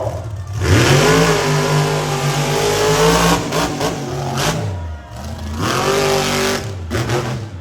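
Monster truck engine revving hard, twice. The pitch climbs about a second in and holds high, drops off around the middle, then climbs again before falling away near the end.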